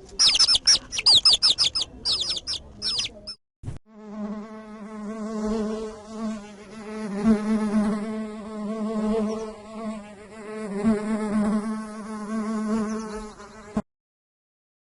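A quick run of high, falling chirps, then a flying insect buzzing: a steady hum that wavers in loudness and pitch for about ten seconds and cuts off abruptly.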